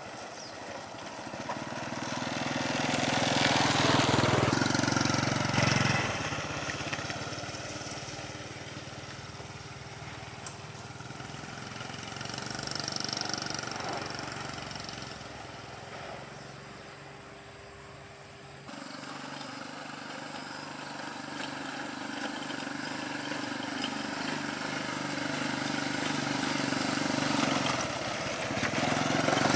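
A small engine running, its sound swelling and fading by turns, with a sudden change about two-thirds of the way through.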